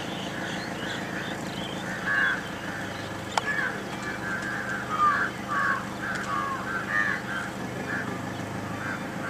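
Birds calling: a run of short calls, about two a second, starting about two seconds in and fading near the end. A steady low hum runs underneath, and there is one sharp click midway.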